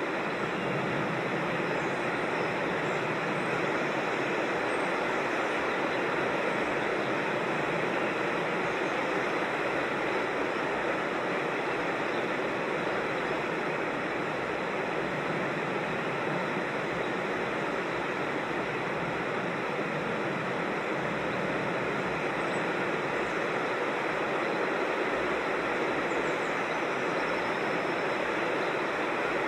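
Steady rushing of a mountain creek and small waterfalls, with a few faint, high bird chirps.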